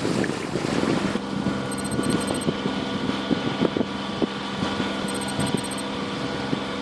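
Wind buffeting the microphone for about a second, then a change to a sailing yacht's inboard engine running steadily under way.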